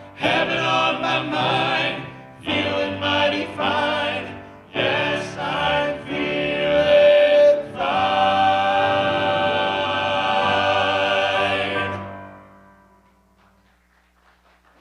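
Vocal group singing an upbeat gospel song in close harmony, ending on a long held chord that dies away about twelve seconds in.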